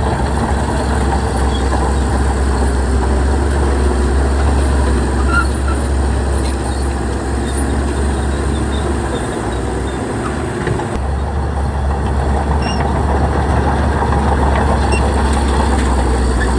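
Shantui bulldozer's diesel engine running steadily, with a short dip in its low rumble about ten seconds in.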